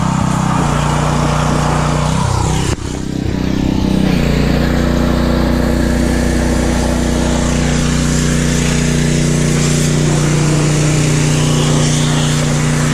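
Pressure washer engine running steadily. About three seconds in, the sound dips briefly and the engine's pitch shifts before settling again.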